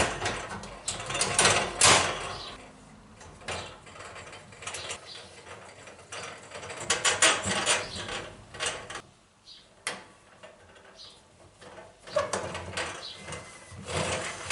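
Metal parts of an electric fan heater being handled and fitted back together: irregular clicks, scrapes and clanks, with a short lull past the middle.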